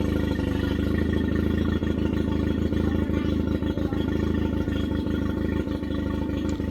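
Nissan Marine outboard motor running steadily, just after being coaxed into starting, with no cooling water coming out of its cooling system.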